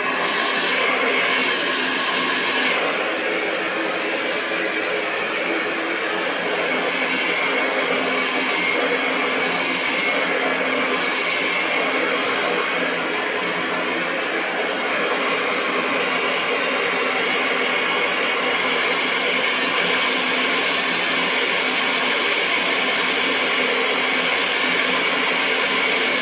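Hair dryer running continuously, a steady airflow noise with a constant motor hum underneath.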